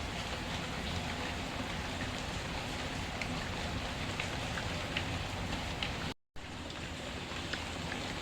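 Steady rain, mixed with scattered faint crackles of a wood fire. The sound cuts out completely for a split second about six seconds in.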